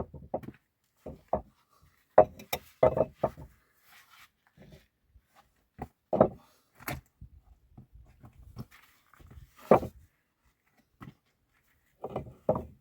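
Irregular knocks and clacks, a dozen or so spread unevenly with short quiet gaps between, the sound of hard objects being handled and set down.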